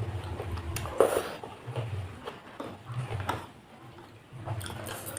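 Close-up eating sounds: chewing soft, soup-soaked crackers and enoki mushrooms in a repeated rhythm. Two sharp clicks of cutlery on a bowl, about a second in and after three seconds.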